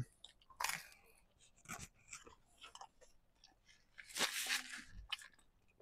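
A man chewing a bite of pizza close to a clip-on microphone, with faint scattered crunches and mouth clicks. About four seconds in comes a brief, louder rustle as a paper napkin is wiped across his mouth.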